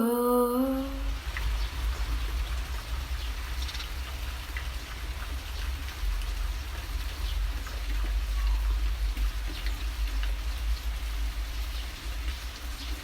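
Steady light patter of falling precipitation, with faint scattered drop ticks over a constant low rumble.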